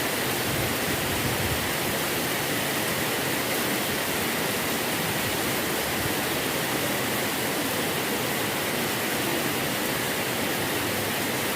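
Rain pouring down steadily, an even rushing hiss of water.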